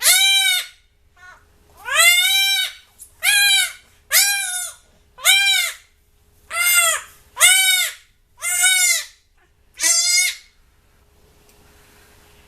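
Young goat kid screaming: nine loud, high bleats, each under a second, rising and falling in pitch, stopping about ten and a half seconds in. These are distress cries from a doeling while a hot disbudding iron burns her horn buds.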